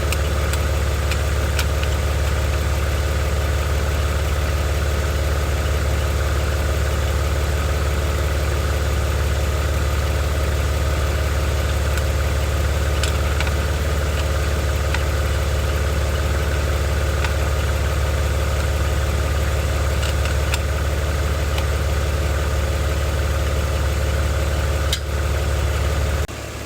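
BMW 330xi's inline-six engine idling steadily, with a low, even hum. The level drops suddenly near the end.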